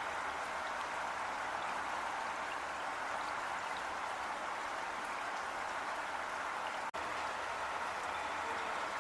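Heavy rain falling steadily: a dense, even hiss of raindrops with faint scattered drips. The sound cuts out for an instant about seven seconds in.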